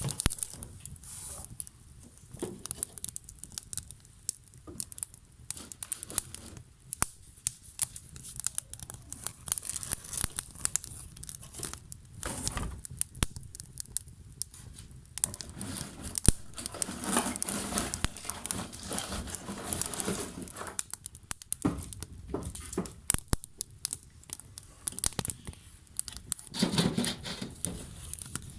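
Burning wood crackling and popping in irregular sharp snaps, with a louder spell of hissing about halfway through and again near the end.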